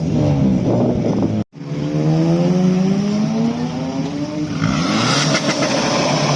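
A car engine accelerating hard, its pitch climbing steadily, then dropping and climbing again. The sound cuts out briefly about a second and a half in.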